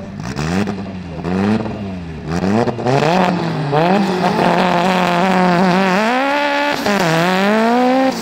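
Mitsubishi Lancer Evolution's turbocharged 4G63 four-cylinder engine revving at the drag-strip start line. Quick blips about twice a second give way after a couple of seconds to revs held steady and high against the rev limiter. Near the end the revs rise, dip briefly and climb again as the car launches.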